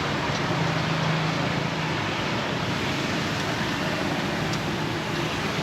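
Steady background noise of a busy street market, with traffic and a faint low hum running under it.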